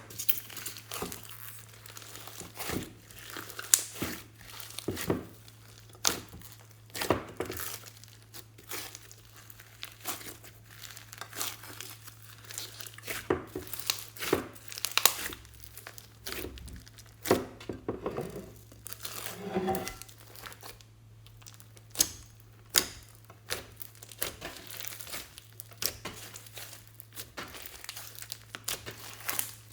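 Glossy slime being stretched, folded and pressed by hand, giving irregular sticky crackles and pops, with a few short squelchy squeaks about two-thirds of the way through. A faint steady low hum runs underneath.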